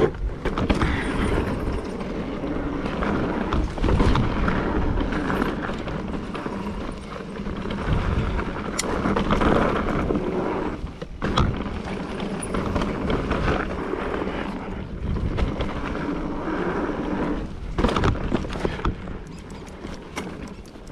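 Mountain bike riding down a dirt trail: tyres rolling over rough ground with the bike rattling, and repeated thumps and knocks from bumps and drops.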